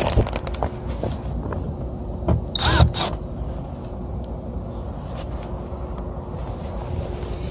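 Packaged rooftop HVAC unit running with a steady low hum. A short burst of a cordless drill, spinning up and down, drives a panel screw about two and a half seconds in.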